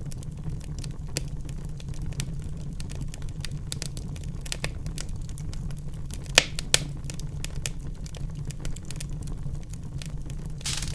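Wood fire burning in a fireplace: a steady low rumble of flame with irregular crackles and pops, two sharper pops close together about two-thirds of the way through.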